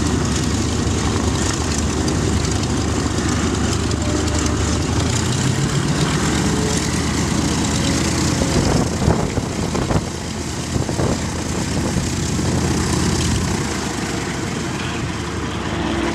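Piston engine of a World War II-era propeller fighter running steadily, its pitch rising about five seconds in, with a few irregular knocks later on.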